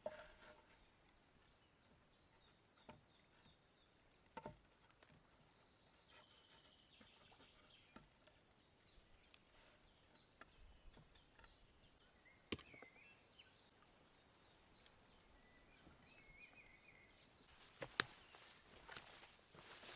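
Quiet forest ambience with faint, short bird chirps, broken by scattered clicks and knocks of steak being marinated by hand, the sharpest two near the end.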